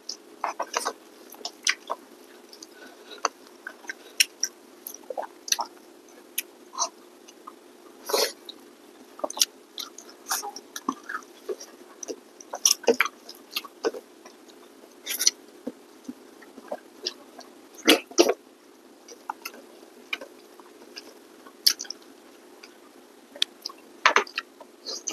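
Two people chewing and smacking as they eat rice and curry by hand: irregular short wet clicks and smacks over a faint steady hum.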